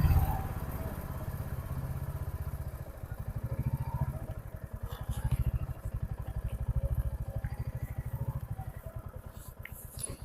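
Motorcycle engine running at low speed, a steady low pulsing beat that swells and eases a few times.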